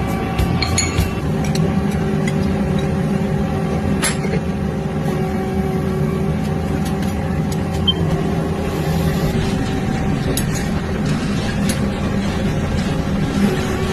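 Metal lathe running with a steady hum and a few light clicks.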